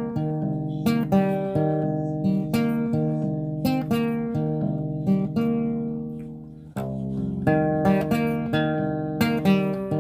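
Acoustic guitar playing an instrumental melody of plucked notes and chords. About two-thirds of the way through, the notes die away and the playing starts again abruptly.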